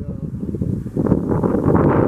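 Wind buffeting the microphone: a loud low rumble that thickens about a second in.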